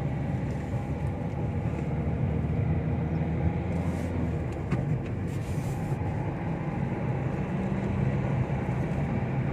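Car driving on a motorway, heard from inside the cabin: a steady low engine and tyre rumble with road noise. There are two short hissing swells, about four and five and a half seconds in.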